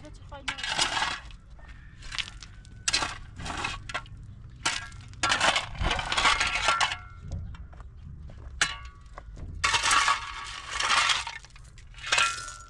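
A series of irregular rough scraping and crunching strokes from hand work on building materials, with a sharp click about two-thirds of the way through.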